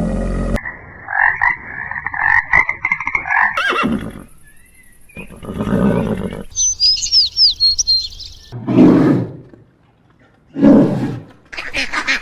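A quick succession of different animal calls, one short clip after another with sudden cuts between them: a pitched call over the first few seconds, a run of high chirps in the middle, and short low calls near the end.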